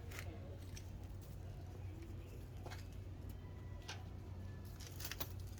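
A few scattered light clicks and taps from handling parts or tools, over a low steady hum, with a small cluster of clicks near the end.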